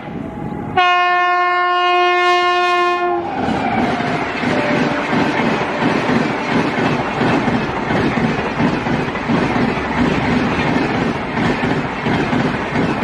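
WAP-7 electric locomotive sounding its horn in one long, steady blast of about two and a half seconds, starting just under a second in. After that comes the loud rush of the express train's passenger coaches passing close at speed, with wheels clattering over the rails.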